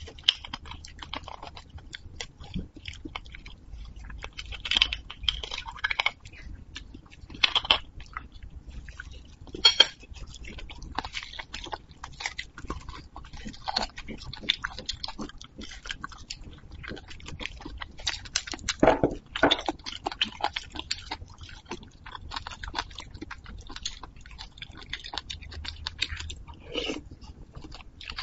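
Close-miked chewing and biting of braised beef bone marrow and the meat on the bone: irregular wet smacking and crunching, with a few louder bites, the loudest about two-thirds of the way through.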